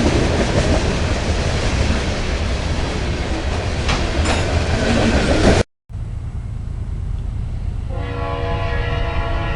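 Diesel train running with a steady, noisy rumble that cuts off abruptly a little past halfway. After a short gap a quieter rumble resumes, and about two seconds before the end a locomotive's multi-note air horn starts sounding, holding a steady chord.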